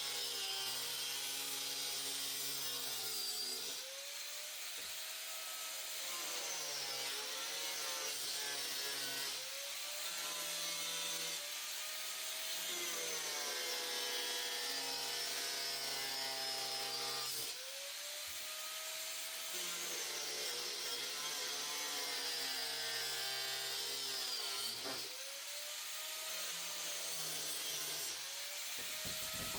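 Cut-off wheel on an angle grinder cutting through a plastic shroud. The motor's whine sags in pitch each time the wheel is pressed into the plastic and climbs back as the load comes off, several times over.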